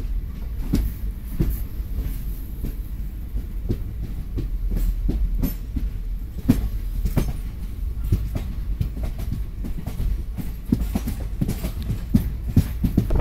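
Passenger train coach rolling along, its wheels clacking over rail joints and points under a steady low rumble. The clacks come at uneven spacing and grow more frequent near the end.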